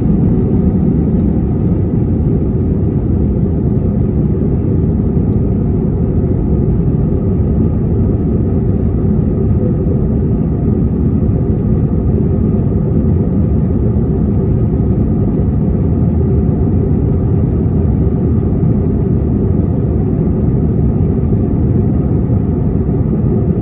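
Steady low rumble of an Airbus A321's engines and airflow heard inside the passenger cabin, holding an even level and pitch throughout.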